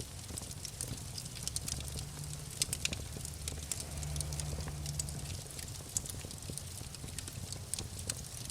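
Wood fire crackling, with frequent small snaps and pops over a low steady rumble.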